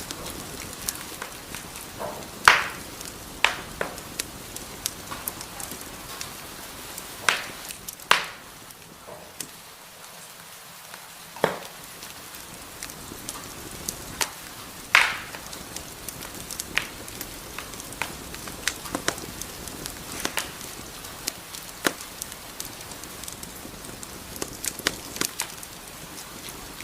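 Wood fire crackling in a fireplace: a soft steady hiss with irregular sharp pops and snaps, a few louder ones standing out, and a brief lull of fewer pops in the middle.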